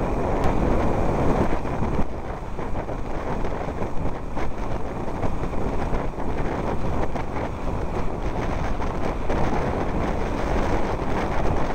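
Vehicle driving on a muddy, potholed unpaved road: a steady rumble with many small knocks and jolts, with wind buffeting the microphone.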